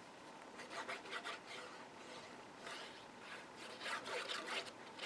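Paper and cardstock rubbing and scraping in several short rustles as a paper panel is handled and pressed onto a card.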